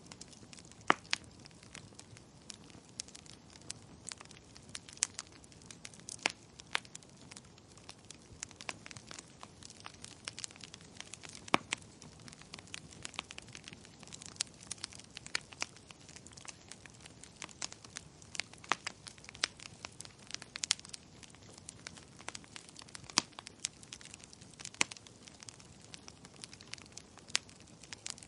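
Wood fire crackling in a fireplace: irregular sharp pops and snaps, several a second at times, over a steady soft hiss.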